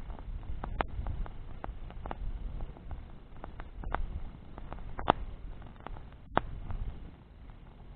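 Wood bonfire crackling, with irregular sharp pops, the two loudest about five and six and a half seconds in, over a low steady rumble.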